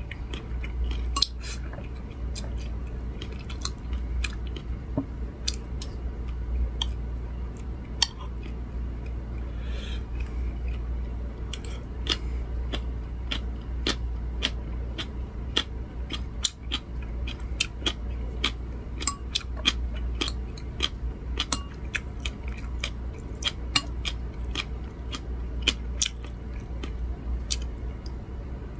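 A person chewing a mouthful of rice and firm salted cucumber side dish, with many sharp, irregular crunching clicks, a few a second, over a steady low hum.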